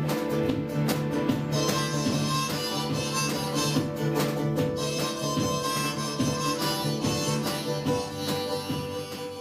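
Harmonica played over strummed acoustic guitar in an instrumental passage of a folk song, the held harmonica notes ringing over regular strumming.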